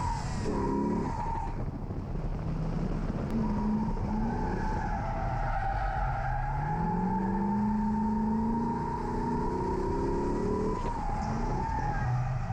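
C6 Corvette's LS V8 revving up and down through a drift, with the rear tires squealing in a steady high tone that breaks off briefly about two seconds in and again near the end. The engine climbs steadily in pitch through the middle of the run.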